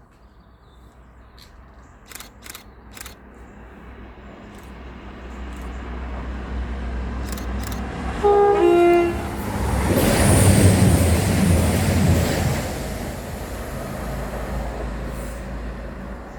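A train approaching, its running noise building steadily, then sounding a two-tone horn, a short high note followed by a lower one, about eight seconds in. It then passes close by with a loud rush of wheel and rail noise before it fades away.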